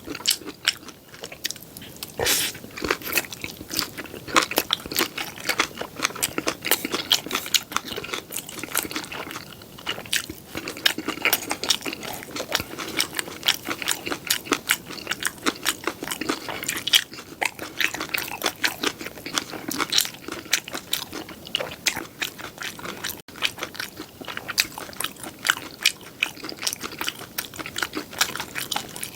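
Close-miked chewing and biting of seafood pajeon, a Korean seafood and green-onion pancake: a continuous run of wet, crackly mouth clicks and small crunches.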